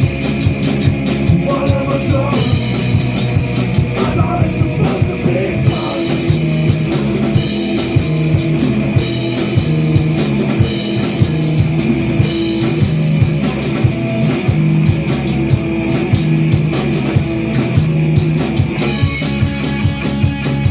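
Punk rock band playing live, with a steady drum beat under electric guitars.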